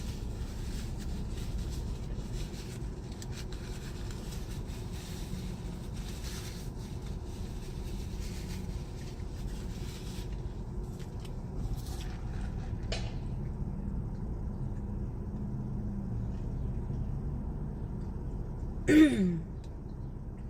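Eating in a car cabin: scattered rustling and chewing noises over a steady low hum. Near the end comes one brief, loud sound that falls in pitch.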